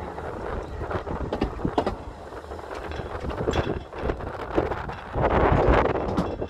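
Narrow-gauge railway coach running along the track, a steady low rumble with clanks and knocks from the running gear and couplings. About five seconds in, a loud gust of wind hits the microphone.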